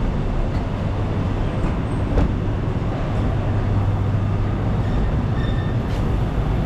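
Steady low mechanical drone of engines or machinery with a constant low hum under a wash of street noise, a few faint clicks over it.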